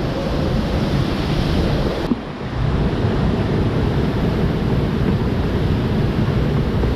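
Waterfall rushing in a loud, steady roar of falling water, with a brief dip about two seconds in.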